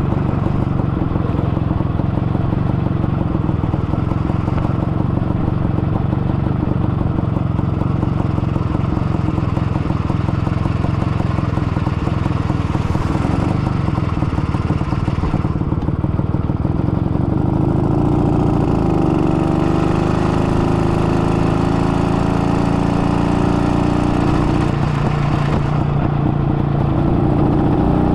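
IZh-49 motorcycle's single-cylinder two-stroke engine running under way; it is freshly rebuilt with a 75 mm overbore piston and is being run in. From about two-thirds of the way in, its note becomes a clearer, steady pitch that shifts up and down in steps.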